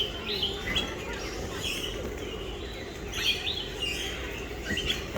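Birds chirping, short calls every second or so, over a steady low background rumble.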